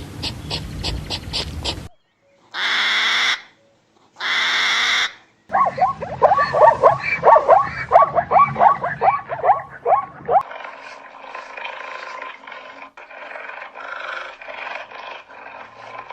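A series of different animal calls cut one after another, among them a run of quick, repeated, falling cries about halfway through.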